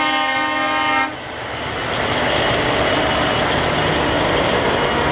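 A truck's air horn blasting a steady multi-tone note that cuts off about a second in, then the running engines and road noise of trucks passing in a parade.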